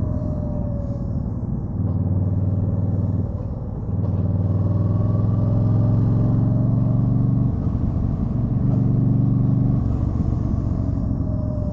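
2013 Yamaha Stryker's V-twin engine running as the bike is ridden. It alternates between a steady, even drone and rougher, noisier stretches, changing every two to four seconds as the throttle is opened and closed.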